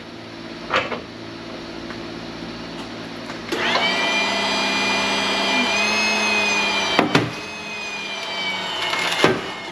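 The powered hydraulic pump of a 25-ton shop press running with a steady whine. About three and a half seconds in it rises and grows much louder as the press bears down on a heavily welded transformer casing to crack it. Sharp metal knocks come about a second in, near seven seconds and just before the end.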